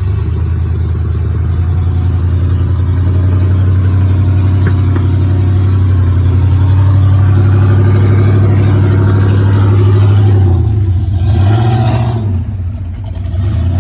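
Off-road vehicle's engine running hard under throttle while it climbs a rock ledge, the rear locker engaged. The engine holds steady for about ten seconds, then the revs dip and rise, with a brief rush of noise near the end.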